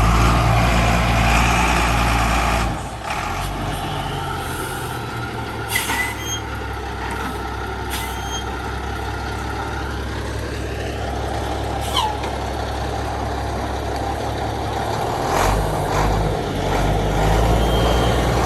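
Vehicle engine running low and steady, louder for the first three seconds and again near the end, with a few short high squeaks in between.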